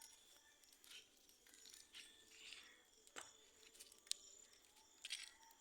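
Near silence with faint, scattered sharp clicks and snaps, and a faint steady high tone underneath.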